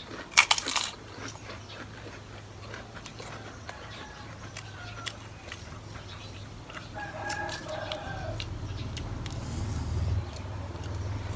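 A rooster crowing in the background, its clearest call about seven seconds in, after a loud crunching bite of food near the start. A low hum grows near the end.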